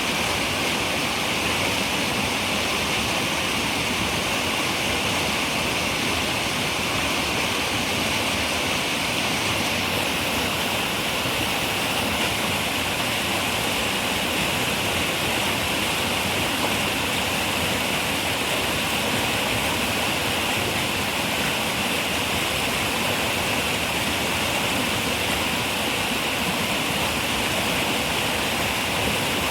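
River water running, a steady rushing flow with no breaks or single events.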